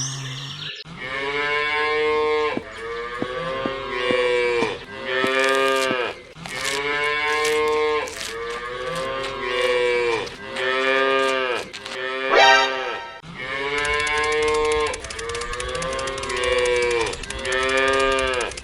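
Cattle mooing over and over, about ten moos one after another, each rising then falling in pitch. A short sharp sound cuts in about twelve seconds in.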